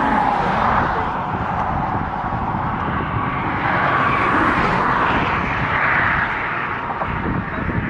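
High-speed highway traffic passing on a bridge, its tyre and engine noise swelling as vehicles go by: once at the start and again in the middle. Wind buffets the microphone throughout.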